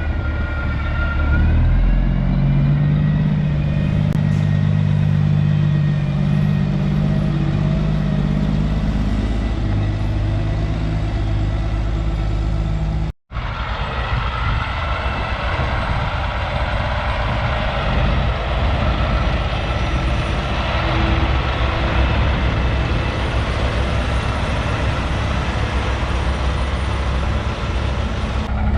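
Semi truck diesel engines running as the trucks roll in. The sound drops out for an instant partway through, then the engine noise resumes.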